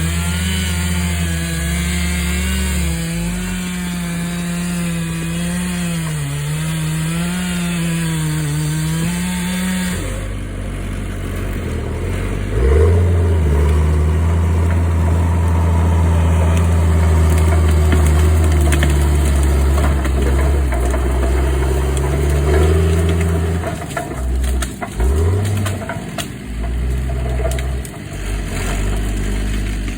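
A chainsaw runs for about ten seconds, its pitch wavering up and down as it cuts. It then gives way abruptly to a lower, steadier engine sound that drops out and comes back several times near the end.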